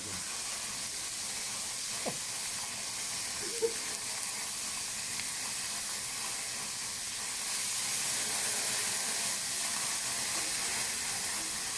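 Beef fillet searing in a very hot pan over an open fire, a steady sizzling hiss as the meat's juices boil off, growing a little louder about two-thirds of the way through. A couple of faint knocks come early in the sizzle.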